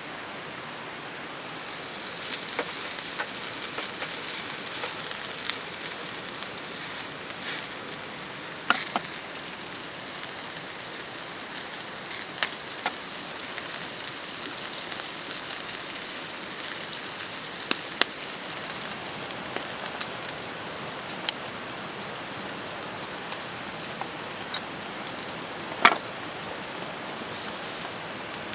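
Food sizzling in a hot pan. The sizzle starts about two seconds in, with scattered pops and crackles.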